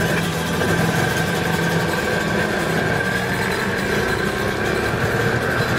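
Small single-cylinder step-through moped engine of the Super Cub type running steadily.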